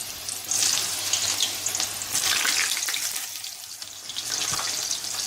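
Eggplant slices frying in hot oil, a steady crackling sizzle that eases a little after halfway and swells again near the end.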